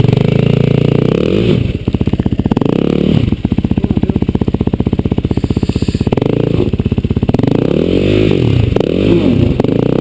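Dirt bike engine running hard on a trail: chugging at low revs with an even pulse for a few seconds, then revved up and down several times near the end.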